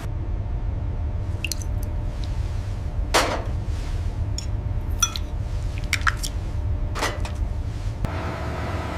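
A steady low rumble with a handful of short, sharp clinks and knocks scattered over it, the loudest about three seconds in.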